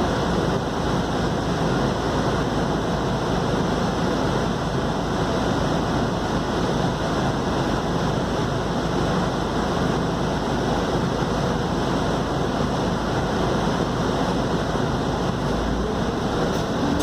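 Scania K280UD double-decker bus on the move at a steady pace: an even drone from its five-cylinder diesel engine blended with road and tyre noise, with no gear changes or sharp revving.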